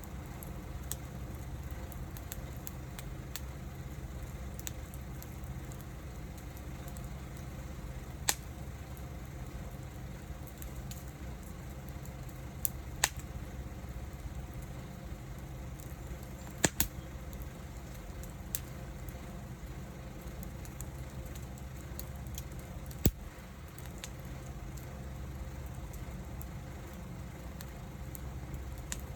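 Wood fire burning with a steady low rush, broken by scattered sharp pops and crackles from the burning wood, a handful of them loud.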